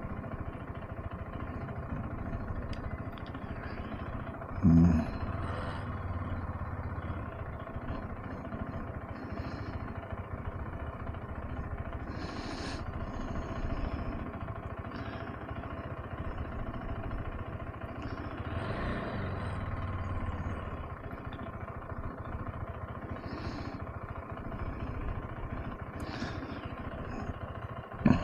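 Single-cylinder engine of a KTM 390 Adventure motorcycle running steadily at low revs. There is a loud low thump about five seconds in and another near the end.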